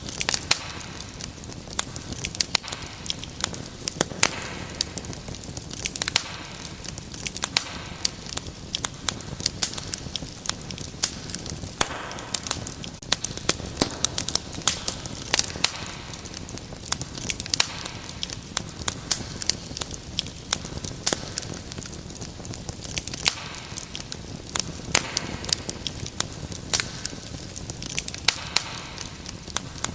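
Wood fire crackling in a fireplace: frequent, irregular pops and snaps over a steady low background noise of the burning fire.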